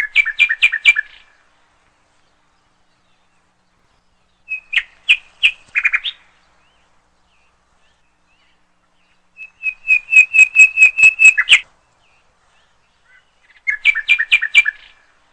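A songbird singing four short phrases of quickly repeated chirps, each phrase lasting one to two seconds, with pauses of a few seconds between them.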